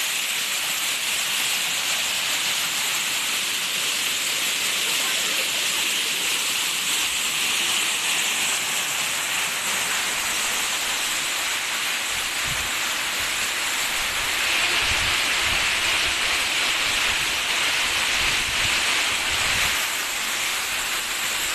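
Waterfall, a steady rush of falling water. From about halfway through, uneven low thuds come in under it.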